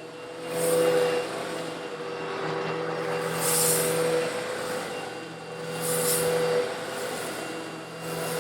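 Eureka vacuum cleaner running with a steady motor hum as it sucks up coarse stone granules. The rushing hiss of the grit swells up three times, about every two and a half seconds.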